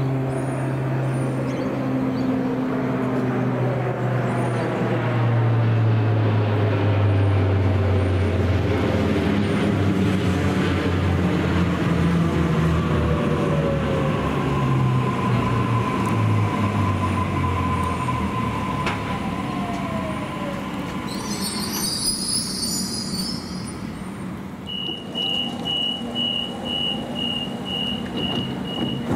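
Electric suburban train pulling into the platform. The motor whine falls in pitch as it slows, with a steady brake squeal in the middle and a short burst of air hiss as it comes to a stop. Near the end comes a row of short, evenly spaced high beeps.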